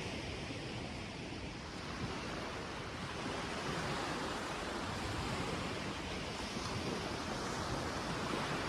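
Sea surf washing onto a sandy beach, a steady rush that swells a few seconds in and again near the end, with some wind on the microphone.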